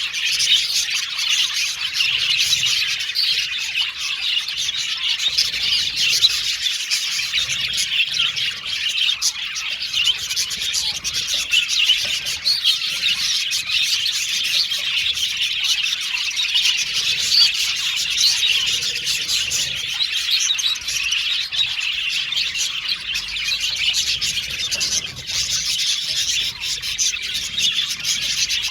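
A flock of budgerigars chirping and warbling together, a dense, unbroken chatter of many overlapping calls.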